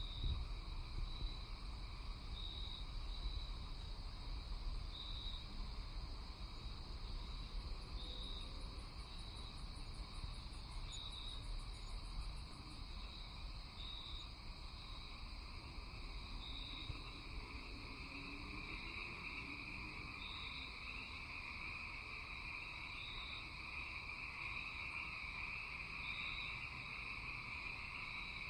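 Night chorus of crickets and other insects: a steady high trill runs under a short chirp that repeats about once a second. A rapid, very high buzzing pulse joins in for a few seconds around the middle.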